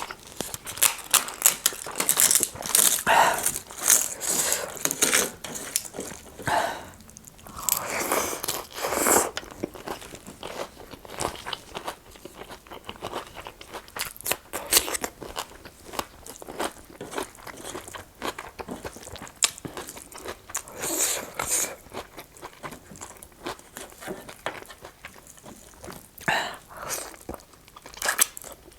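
Close-miked eating: chewing and crunching through bites of food, with many small mouth clicks and sharper bites that come and go in clusters.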